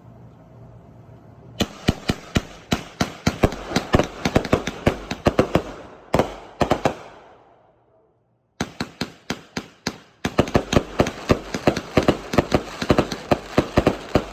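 An 84-shot consumer firework cake firing rapid bangs, several a second. The bangs begin about a second and a half in, fade out and stop for about a second and a half near the middle, then resume.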